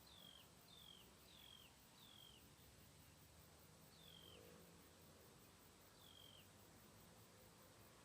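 Faint bird calls: short whistled notes that slide downward, four in quick succession at the start, then single notes about two seconds apart, over a faint steady hiss.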